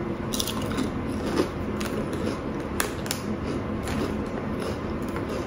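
Chewing a crunchy tomato-flavoured snack, with irregular crisp crunches about two a second.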